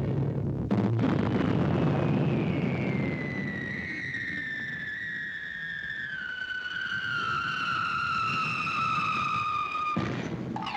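A cartoon sound-effect whistle: after a low rumbling noise with a sharp click, a long whistling tone slides steadily down in pitch for about seven seconds and cuts off abruptly near the end.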